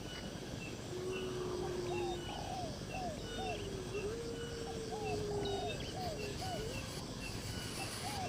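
Birds calling: long, low whistled notes that sag slightly in pitch, together with series of short rise-and-fall calls that come quickly in the second half, and faint high chirps.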